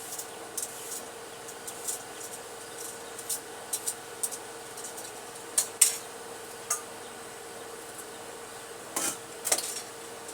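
Knife scraping the skin off a carrot in short, irregular strokes, a few louder ones around the middle and near the end, over a faint steady hum.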